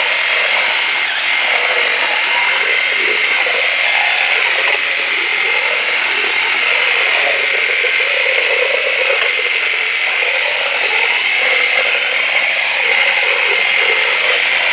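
Worx WG633 Hydroshot cordless pressure washer running continuously, a steady high motor-pump whine over the rushing hiss of its water jet on a surface.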